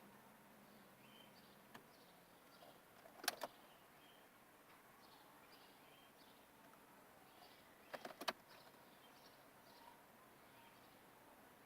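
Near silence with no engine running. A sharp click comes about three seconds in and a quick run of clicks about eight seconds in, over faint bird chirps.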